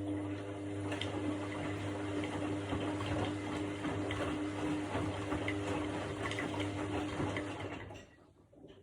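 Washing machine running: a steady motor hum under churning, sloshing water, which cuts off sharply about eight seconds in.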